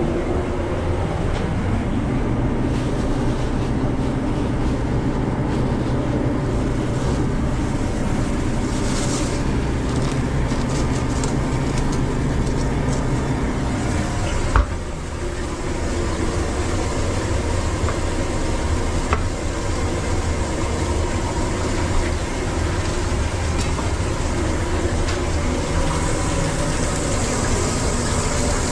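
Steady low mechanical drone of food-truck kitchen machinery, with scattered small clicks of cookware and one sharp knock about halfway through.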